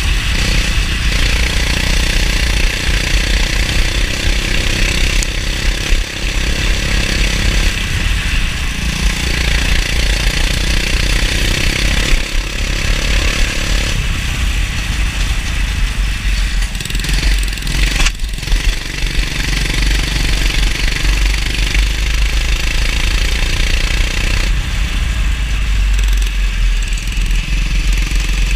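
Go-kart engine running close up, its pitch rising and falling as the kart accelerates and lifts off, under a steady hiss.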